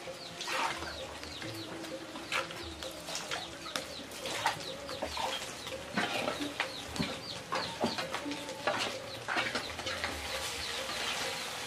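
Birds chirping over and over, each note short and falling, with a few sharp clicks between them.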